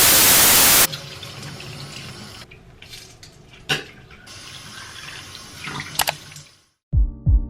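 Water running from a tap: a loud rush for about the first second, then a softer steady flow with a few light clicks and knocks, cutting off shortly before the end.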